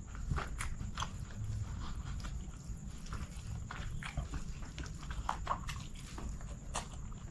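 Close-up eating sounds: a man chewing chicken biryani with irregular wet smacks and clicks of the lips and mouth, while his fingers work the rice on a banana leaf.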